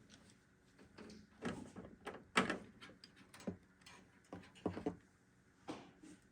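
Irregular knocks and clatters of hard parts being handled and fitted together during a PC build, about half a dozen in all, the loudest a little over two seconds in.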